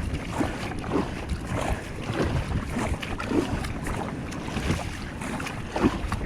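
Wind buffeting the microphone and sea water splashing against a fishing kayak out in the surf, with irregular splashes every second or so.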